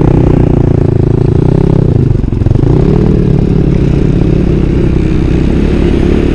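Engine of a small off-road vehicle running under throttle while riding, with a brief drop in revs about two seconds in before it picks up again.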